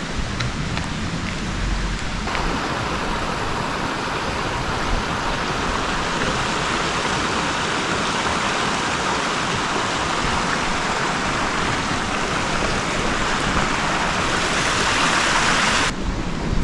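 Waterfall's falling water rushing in a steady hiss, stepping up louder about two seconds in and cutting off abruptly near the end.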